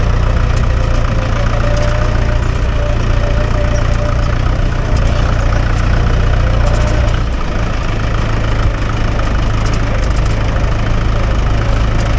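Mahindra 575 DI tractor's four-cylinder diesel engine running steadily, its note shifting slightly about seven seconds in.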